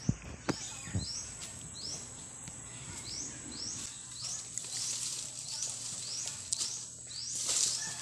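A bird repeating a short rising chirp about twice a second, over a steady high-pitched insect drone. A few sharp knocks come in the first second, and dry palm fronds rustle loudly as they are pulled about near the end.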